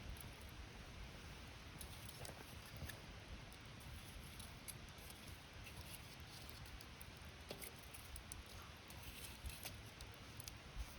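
Campfire crackling faintly: scattered small pops and snaps of burning wood over a soft steady hiss.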